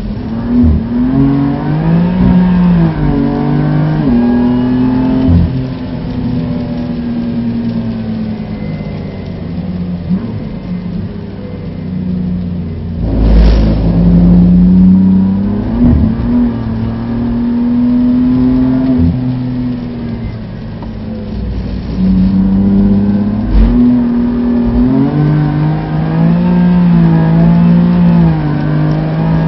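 Inside the cabin of a BMW F80 M3, its twin-turbo straight-six revs up and down as the car slows for bends and accelerates through the gears. About thirteen seconds in there is a loud thump with a burst of noise. Near the end the pitch climbs in quick steps as the car upshifts.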